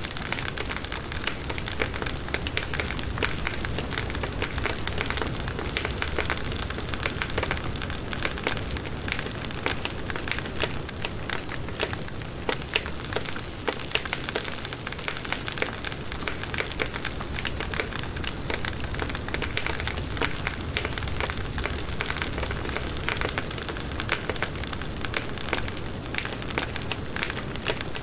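Firewood burning in a campfire, with a steady hiss and many small sharp crackles and pops all through.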